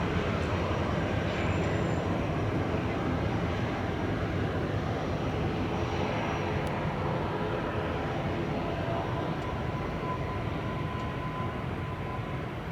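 Jet engine noise from a Boeing 737-800's CFM56-7B turbofans: a steady, dense rush that slowly fades over the last few seconds.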